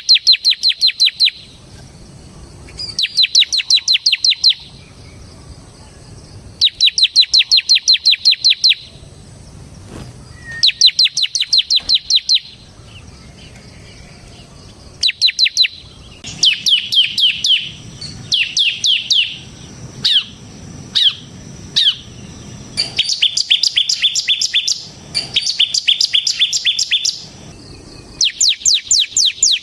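Bar-winged prinia (ciblek, semi variety) singing its rapid 'ngebren' song: phrases of about a second and a half to two seconds, each a fast, even run of sharp high notes, repeated with short pauses. Around the middle the phrases turn shorter and choppier, with falling notes, before the long runs return.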